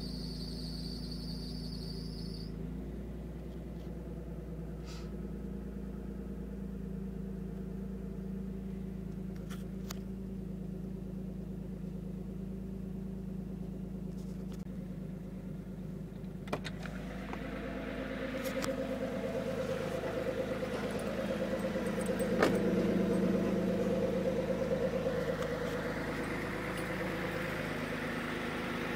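Exhaust of a 1997 Isuzu Rodeo's 3.2-litre V6 through true dual exhaust with Cherry Bomb Pro mufflers, idling steadily. In the second half the engine note rises and swells for several seconds, then settles back toward idle near the end.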